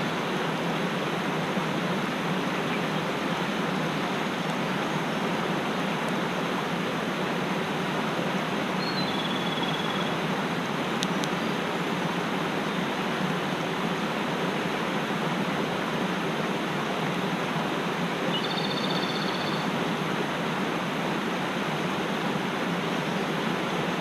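Mountain stream rushing steadily, with two faint short high bird calls, one about nine seconds in and one near nineteen.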